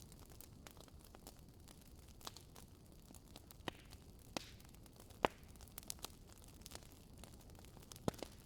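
Wood fire crackling in a fireplace: irregular sharp pops and snaps over a soft steady hiss, the loudest pop about five seconds in.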